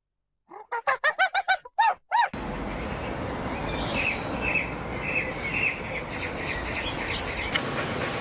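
A quick run of about seven short, arched animal calls, then a switch to steady outdoor noise with a string of small bird chirps.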